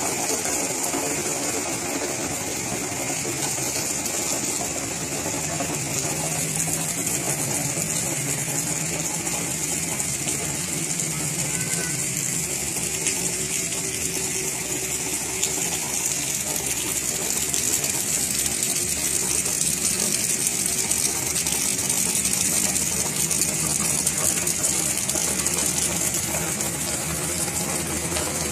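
Steady rain falling: a dense hiss full of fine patter from the drops, swelling slightly in the second half.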